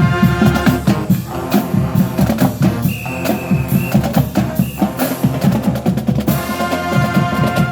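High school marching band playing loudly: drums beating a busy rhythm under brass and wind instruments holding notes.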